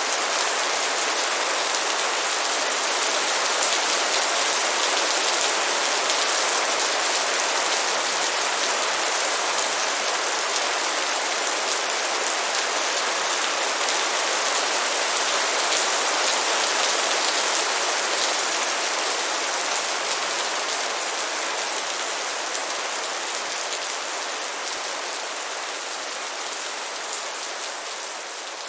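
Light rain falling in a steady, dense patter of drops, slowly fading out over the last several seconds.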